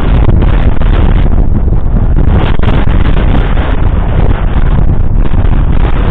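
Fendt 942 Vario's 9.0-litre six-cylinder diesel working steadily under load, pulling a cultivator through the soil, with wind noise on the microphone.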